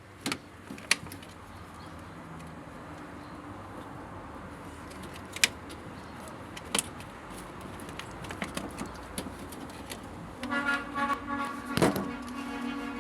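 Scattered sharp clicks and knocks from handling the washing machine during repair. Near the end comes a few seconds of a pitched, horn-like tone in short broken pulses, with a loud knock in the middle of it.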